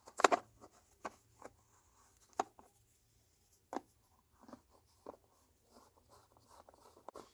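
Light clicks, taps and scrapes of plastic being handled as an angled funnel and gear-oil bottle are fitted at the tractor's filler, with the loudest click just after the start.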